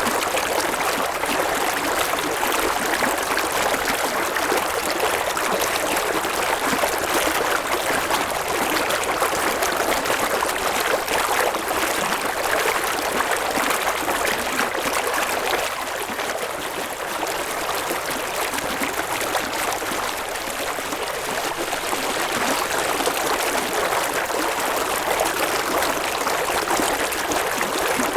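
River water flowing and babbling over stones: a steady, dense rushing with no breaks.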